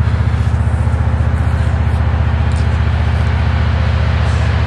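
A motor running steadily with a low, evenly pulsing hum.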